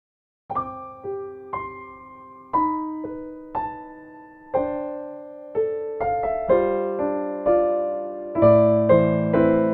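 Solo piano playing a slow ballad melody: single notes struck about once a second, each left to ring and fade, starting about half a second in, with fuller chords and low bass notes joining near the end.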